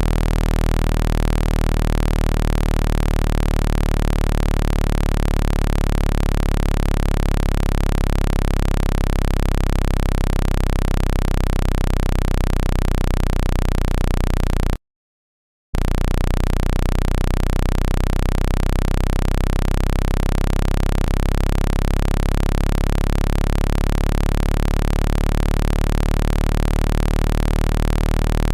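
Synthesized low-pitched speaker-cleaning tone, a steady hum made to vibrate water out of a phone speaker. It cuts out completely for about a second midway, then resumes.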